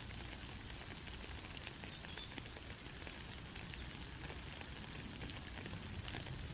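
Steady white-noise hiss, strongest in the treble, with scattered faint clicks and crackles through it.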